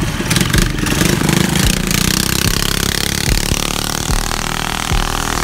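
Mini bike's small engine running and revving, its pitch rising in the middle.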